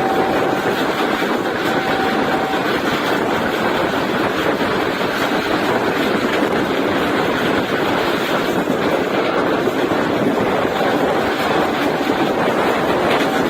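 Steady rushing running noise of an Indian Railways express train at speed, heard from aboard. A faint thin steady tone sounds for the first couple of seconds and again in the last few seconds.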